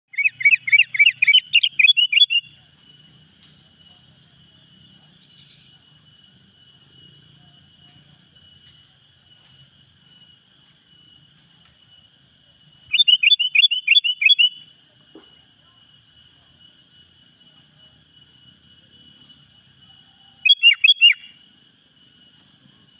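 Sooty-headed bulbul (kutilang) calling in three bursts of quick upward-sweeping chirps. The first burst runs about two seconds at the start, a shorter one comes about halfway through, and a brief one near the end, over a steady faint high-pitched whine.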